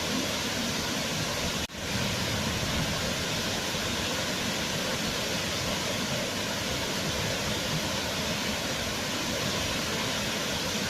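Waterfall: a steady, dense rush of falling water, broken by a split-second dropout about two seconds in.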